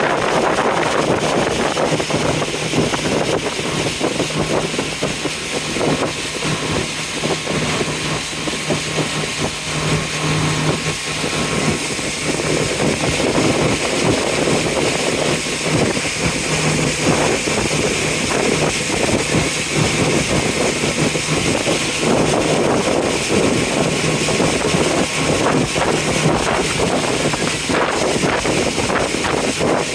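Tour boat's engine running steadily with a low hum, over wind and water noise.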